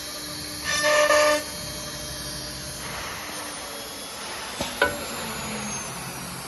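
An AccTek AKM1325C automatic-tool-change CNC router running in a workshop. A short buzzing tone sounds for under a second about a second in, then a steady hiss continues, with a sharp clunk a little before the five-second mark.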